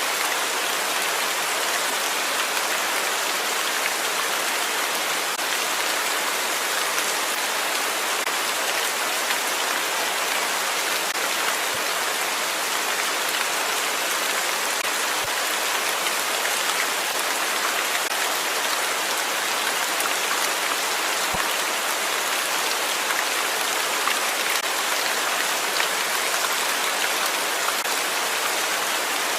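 Steady rain falling on a surface: an even, dense hiss of many drops, unchanging throughout.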